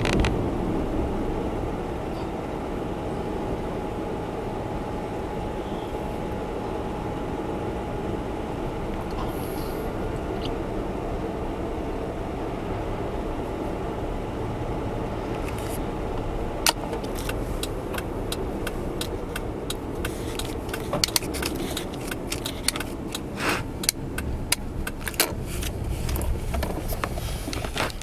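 Honda Zest Spark's three-cylinder engine and road noise heard steadily from inside the cabin. About halfway through, a run of sharp clicks and rattles begins and grows busier near the end.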